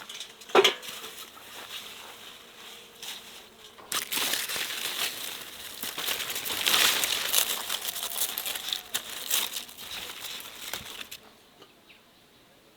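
Crinkling, rustling handling noise, with a sharp knock about half a second in; the rustling grows louder about four seconds in and dies away near the end.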